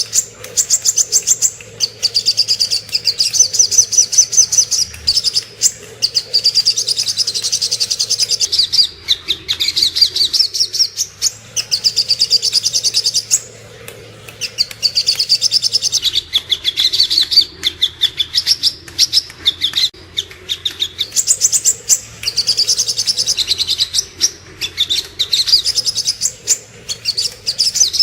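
Sogok ontong (little spiderhunter) singing: rapid, high chattering trills in phrases of a second or two, repeated with short pauses throughout.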